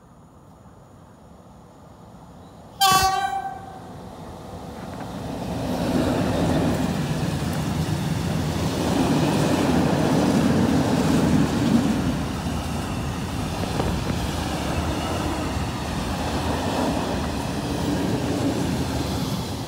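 Train horn gives one short blast, then a passing train's rumble swells in and holds steady, with the rolling of wheels on rail.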